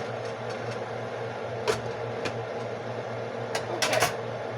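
Steady hum of a kitchen fan running. A few sharp clicks come over it, with a quick cluster of them near the end.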